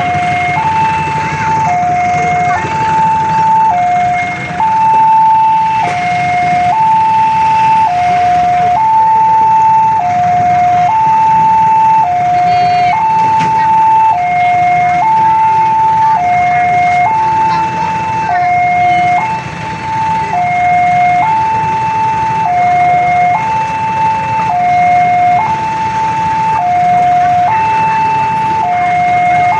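Railway level-crossing warning alarm sounding a loud electronic two-tone signal, switching between a higher and a lower note about once a second, steady throughout. It is the crossing's warning that a train is approaching and the barrier is down. A low rumble of traffic runs underneath.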